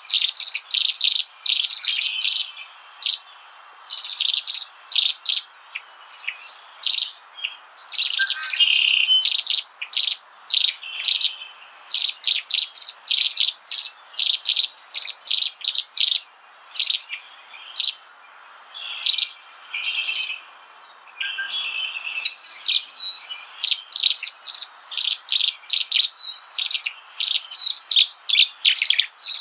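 Small birds chirping: many short, high chirps in quick runs, with some short falling notes near the end, over a faint steady hiss.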